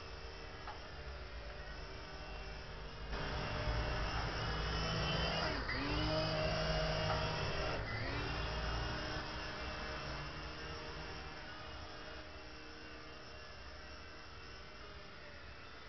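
Small electric motors of a mini 3-channel RC helicopter whirring with a steady whine. It gets louder about three seconds in, dips briefly in pitch and recovers twice, then eases back down.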